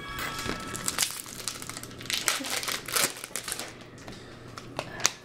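Crinkling of a foil trading-card pack wrapper as it is handled and torn open, a run of irregular crackles and rustles.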